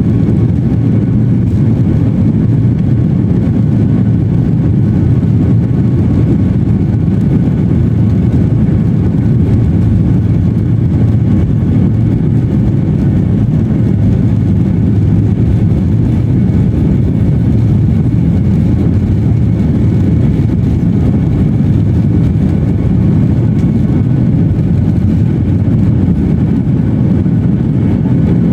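Airliner engines running with a loud, steady low rumble, heard from inside the passenger cabin during the takeoff.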